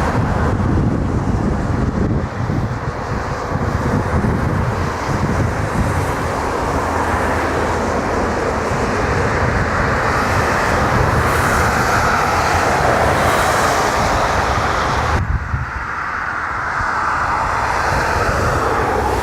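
Jet airliner engines at close range: a loud, continuous rush of jet noise over a deep rumble, swelling in the middle range toward the latter part. It breaks off abruptly about fifteen seconds in and similar jet noise picks up again.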